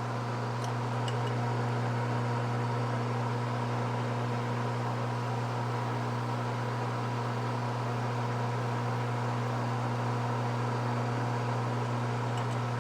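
Metal lathe running steadily with an even motor hum while a drill bit in the tailstock bores into the spinning metal sleeve.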